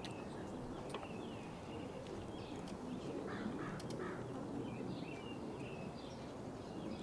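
Birds calling and chirping over a steady low background rumble, with a run of three short, harsher calls a little past the middle.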